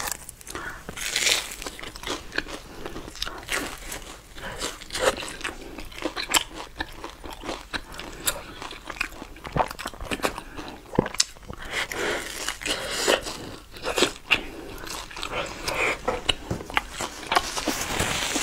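Close-up eating sounds of crisp pan-fried buns: irregular crunchy bites and wet chewing, picked up close by a clip-on microphone.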